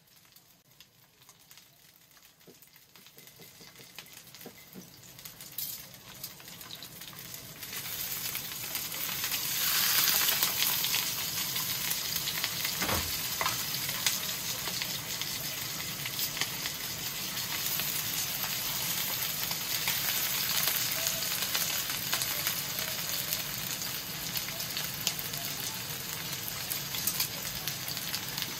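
A string-tied chicken roll frying in a non-stick pan. The sizzle starts faint, grows louder over the first several seconds, then stays steady. There is a single knock near the middle as tongs turn the roll.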